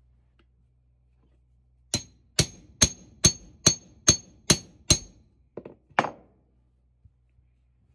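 Hammer striking metal eight times in quick succession, about two blows a second, each with a short metallic ring, then a few duller knocks. The blows are aimed at prising a Mark 1 Mini's steel suspension trumpet out of its seized rubber cone.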